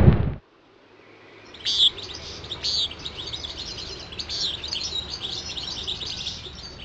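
Loud music cuts off in the first half second. After a short silence, small birds start chirping and singing about a second and a half in, with many quick high chirps, as meadow ambience.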